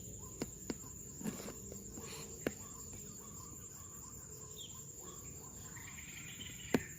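A steady, high insect trill, typical of crickets, over a quiet outdoor background, with a few faint sharp clicks or snaps.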